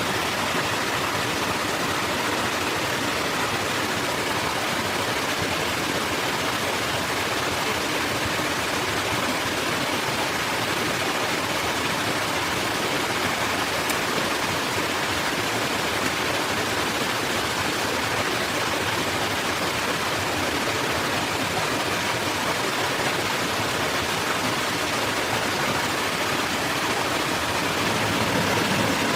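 Steady rushing of flowing water, like a forest stream, an even hiss with no break.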